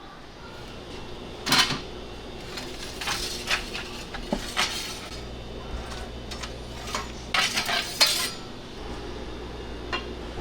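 Kitchen clatter of metal utensils and dishes knocking and clinking in irregular bursts, loudest about a second and a half in and again around eight seconds, over a steady low hum.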